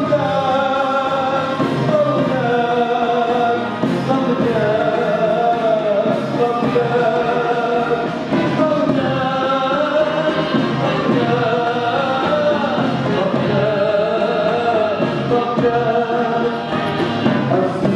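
Live orchestral music with a choir singing a melodic passage between the solo verses.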